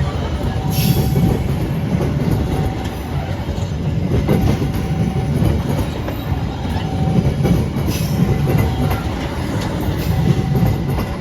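A train passing close by: a steady heavy rumble of steel wheels on the rails, with sharp clicks as the wheels cross rail joints and a faint squeal that comes and goes.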